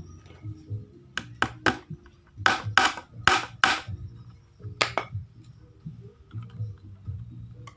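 A hammer tapping during bird-cage building: about nine sharp strikes in uneven clusters, the hardest in a quick run of five a little past two seconds in, then a last one near five seconds in.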